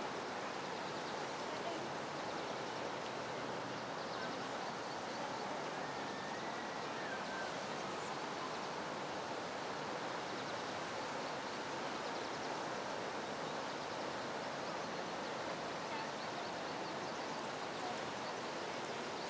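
Steady, even rush of water churning in a canal lock chamber as it fills to raise a ship.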